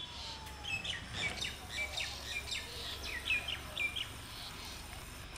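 Small birds chirping: a quick run of short, high chirps, several sweeping down in pitch, over the first four seconds, against a steady low background rumble.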